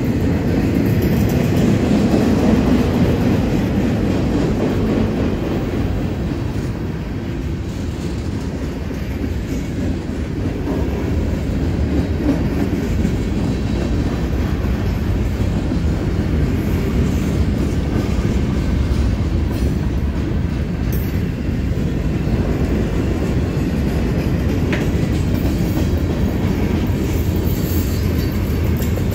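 Cars of a mixed freight train rolling steadily past: a continuous rumble of steel wheels on rail with a clickety-clack over the rail joints, loudest in the first few seconds.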